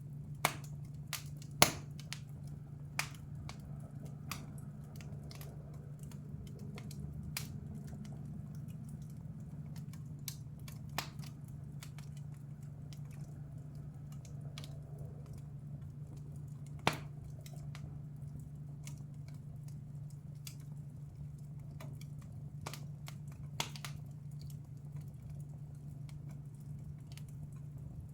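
Wood fire crackling in a fireplace, with sharp pops and snaps at irregular intervals over a steady low hum. The loudest pops come near the start and again about seventeen seconds in.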